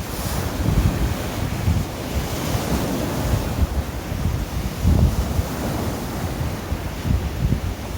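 Wind buffeting the microphone in uneven gusts over the steady wash of surf on a stormy sea shore.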